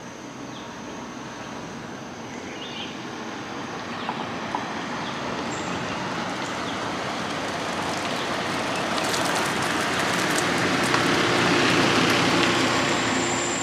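Steady rushing noise that slowly swells louder, with a continuous high-pitched insect drone above it.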